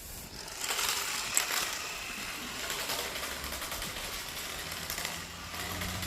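Toy-grade battery-powered RC monster truck driving, its small electric motor and plastic gears buzzing steadily; the buzz starts about half a second in and fades shortly before the end.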